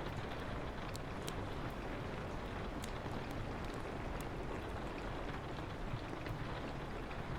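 Steady rain falling, with a handful of sharp pops from a crackling wood fire scattered through it.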